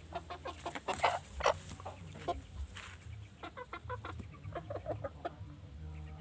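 Chickens clucking: a run of short, irregular calls, several close together.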